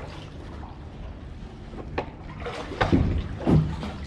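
Kayak paddle strokes and water sloshing as a kayak is backed into a tight spot, with a few sharp knocks and splashes about two to three and a half seconds in.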